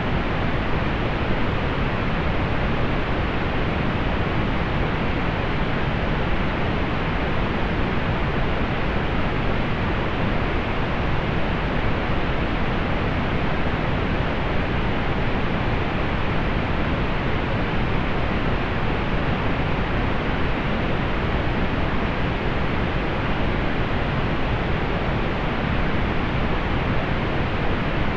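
Steady synthetic pink noise, an even hiss weighted toward the lows and fading out above the upper mids, unchanging throughout.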